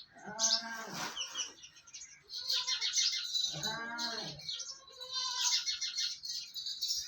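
Goats bleating twice, about a second in and again near the middle, while small birds chirp and trill rapidly throughout.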